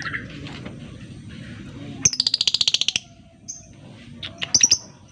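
Lovebird calling: a fast, shrill chattering trill lasting about a second near the middle, the 'ngekek' call, then a few sharp, high chirps near the end.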